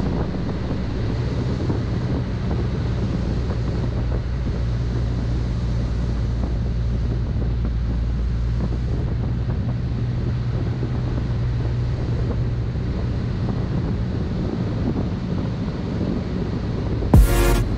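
Cessna 152's four-cylinder engine droning steadily inside the cockpit, with rushing wind noise over it. A sudden louder burst comes near the end.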